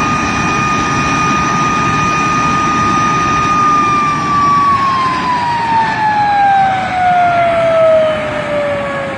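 de Havilland Vampire's Goblin turbojet running with a loud rushing noise and a high whine. The whine holds steady, then about four seconds in falls smoothly in pitch as the engine spools down.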